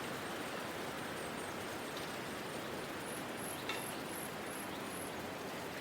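Steady outdoor background noise in open parkland, with a small bird's faint, high chirps repeating about three times a second in the second half. A single brief click comes near the middle.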